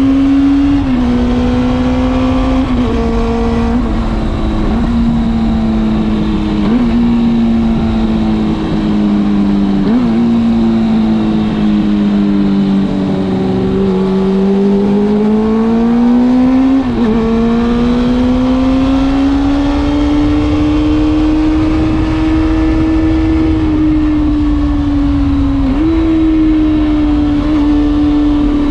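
Kawasaki Balius II's 250 cc inline-four engine running through an RPM New 4-into-2-into-1 collector exhaust while riding. The high engine note sags slowly over the first half, climbs again from about midway and holds, and its pitch jumps abruptly several times.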